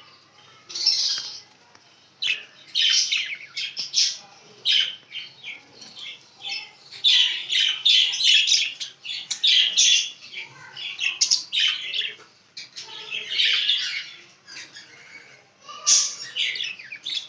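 Hagoromo budgerigars chirping and chattering in quick runs of short, high calls, busiest around the middle.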